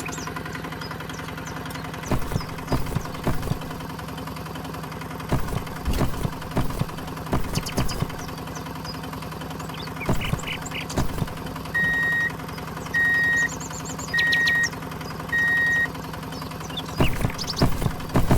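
A small motor running with a steady hum, with scattered knocks and clicks. Past the middle come four short, even beeps about a second apart.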